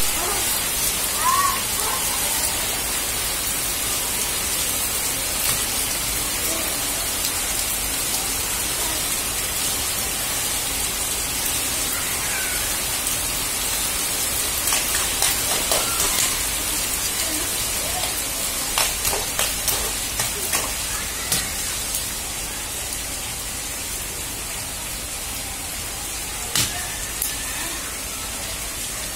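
Heavy rain falling steadily onto a flooded flat concrete rooftop: an even hiss, with scattered sharp taps and splashes, most of them in the middle stretch.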